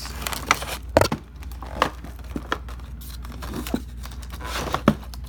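Firework canister shells and their paper wrapping being handled: rustling and crinkling, with a few sharp knocks, the loudest about a second in and near the end.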